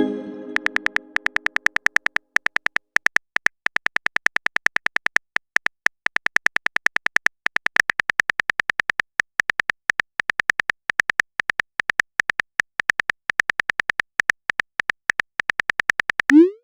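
Chat-app sound effects: a message chime fading out at the start, then a long run of quick, irregular typing clicks, each with a short high beep, and a short rising whoosh near the end as a message is sent.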